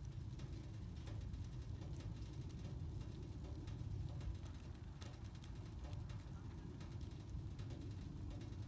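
Wood campfire burning, with scattered small crackles and pops over a low steady rumble.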